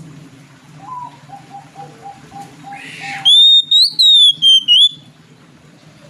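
Oriental magpie-robin (kacer) singing: a quick run of about nine low, short notes, a brief harsh rasp, then a loud, clear whistled phrase that rises and falls in pitch in several broken pieces.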